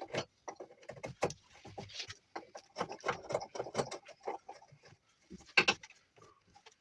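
Juniper wood being carved by hand with an edge tool: a run of short, irregular cutting and scraping strokes, with a louder stroke near the end.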